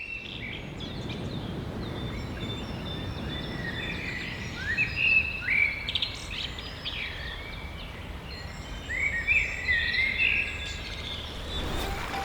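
Birds chirping in short rising and falling notes that come in clusters, over a steady outdoor background hiss.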